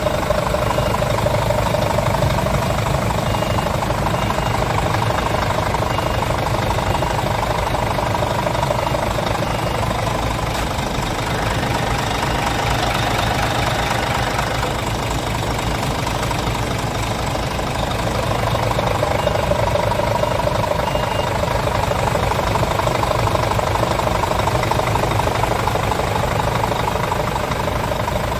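Scania R truck's diesel engine idling steadily. A faint high beep repeats a little faster than once a second through the first third, and again briefly later on.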